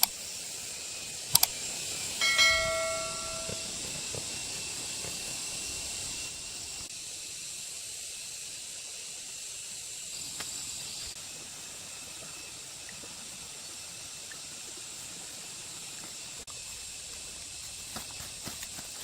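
A steady high hiss. A couple of sharp clicks, then about two seconds in a metal object is struck and rings briefly, its tone dying away over about a second.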